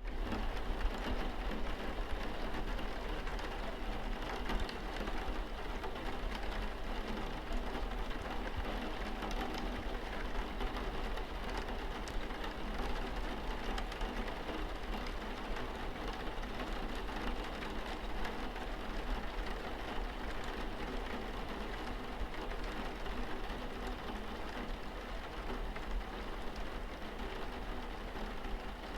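Rain pattering steadily on a car windscreen, many small drop ticks over an even hiss, with a constant low hum underneath.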